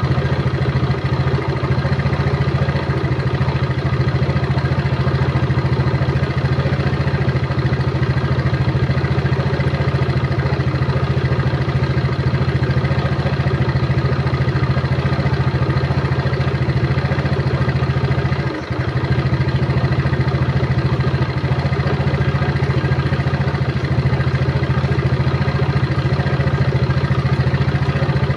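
A motor running steadily with an even, continuous drone, dipping briefly about two-thirds of the way through.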